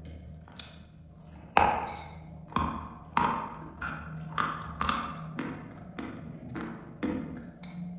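Dry chalk being chewed close to the microphone: a run of irregular crisp crunches, the loudest about one and a half seconds in, each with a short ringing tail.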